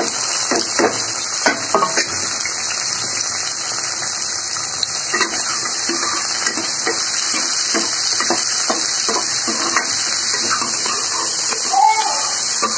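Sliced onion, tomato, garlic and red chillies sizzling in oil in a steel kadhai, with a metal ladle clinking and scraping against the pan as they are stirred.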